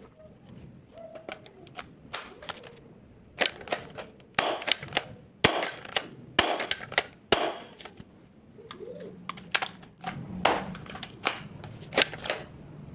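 Spring-powered airsoft gun being handled, reloaded and fired: a run of irregular sharp plastic clacks and snaps, in two busy clusters, the first about a third of the way in and the second near the end.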